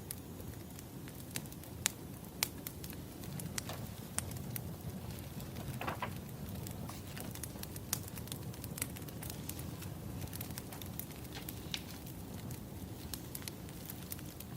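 Wood fire burning: irregular sharp crackles and pops over a steady low rumble of flames, with a brief hiss about six seconds in.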